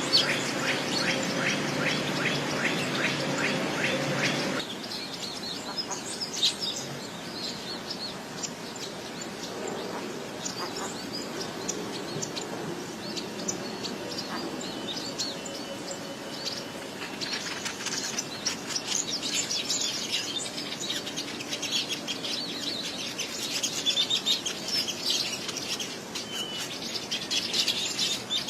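Small birds chirping in quick, high, repeated calls, busier in the second half. A fuller, denser sound in the first few seconds cuts off abruptly.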